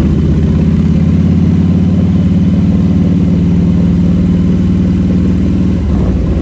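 Harley-Davidson motorcycle engine running steadily, with a brief dip near the end.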